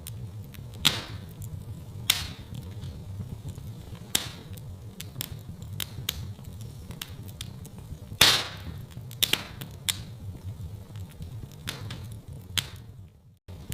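Wood fire burning in a fireplace: a steady low rumble of flames with frequent crackles and sharp pops, a few of them louder, the loudest about eight seconds in. The sound drops out for a moment near the end.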